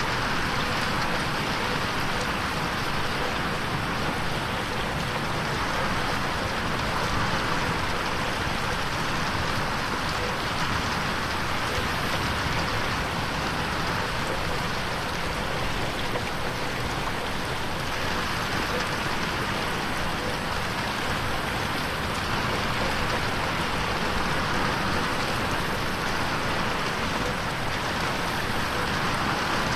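Steady rain falling on a window pane, an even hiss of drops with no thunder, mixed as 8D audio that pans around the listener's head.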